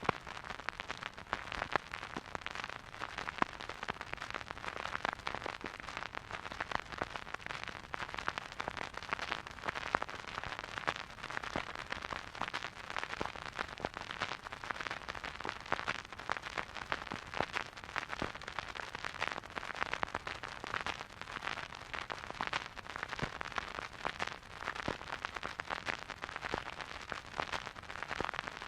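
Vinyl record surface noise from a silent groove: a dense, steady patter of crackles and small pops over a faint hiss, with some louder pops standing out.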